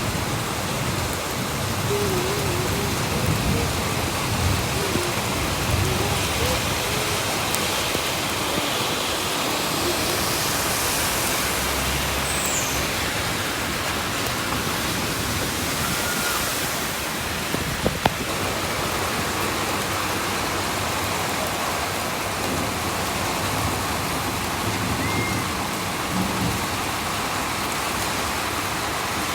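Heavy rain pouring down in a dense, steady hiss. Two brief sharp knocks sound about eighteen seconds in.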